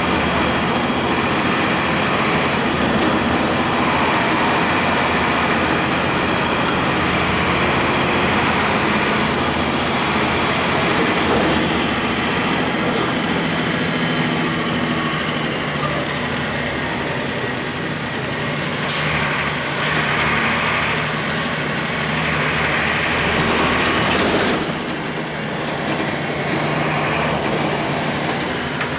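The Cummins ISC inline-six diesel and Allison B400R automatic transmission of a 2002 Blue Bird CS transit bus, running steadily under way. There are two short hisses in the second half.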